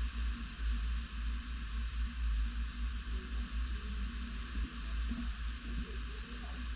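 Tropical-storm wind buffeting the microphone in gusts, with a deep, rapidly fluttering rumble over a steady hiss.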